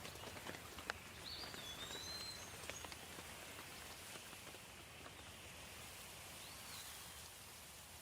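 Soft, steady rain with scattered drops ticking close by. A bird gives short chirping calls a little after the first second and again near the end.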